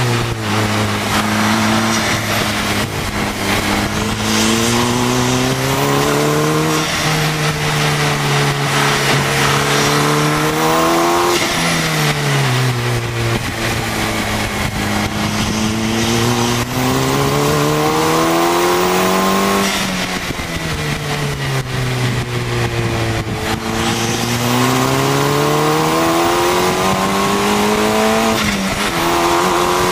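KTM X-Bow's turbocharged Audi 2.0-litre four-cylinder at speed on track, heard from its open cockpit. The revs climb and drop back three times, with heavy wind and road rush throughout.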